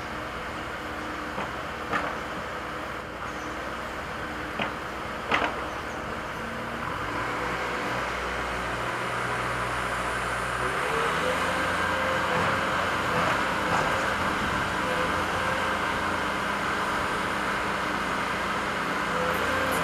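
Diesel engines of construction machinery running steadily, with a few sharp metallic knocks in the first half. The engine sound grows louder about ten seconds in, as a machine revs up under load.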